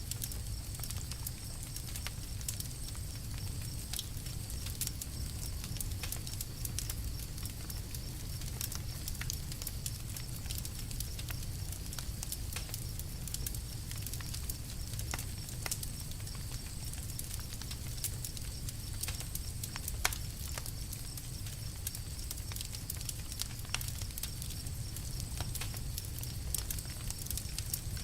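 Wood campfire crackling: many small irregular pops and snaps, a few sharper ones, over a steady low rumble.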